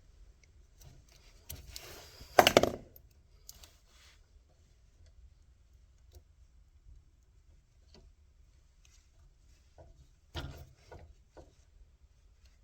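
Handling and tool noises: a few knocks and rubs, with a loud knock about two and a half seconds in and a shorter cluster of knocks near ten and a half seconds.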